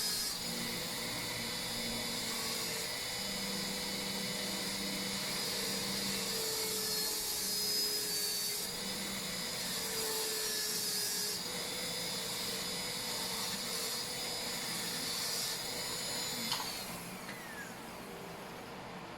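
Dental high-speed air-turbine handpiece running with a steady high whine and hiss as it cuts the cavity preparation, changing a little in strength from moment to moment. It cuts off about sixteen and a half seconds in.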